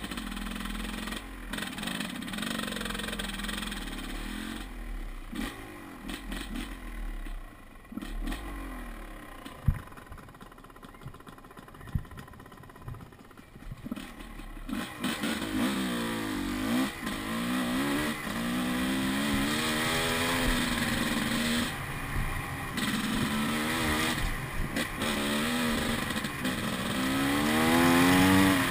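Enduro dirt bike engine revving up and down in repeated surges, with a few sharp knocks about ten seconds in. The revving grows stronger from about halfway and is loudest near the end.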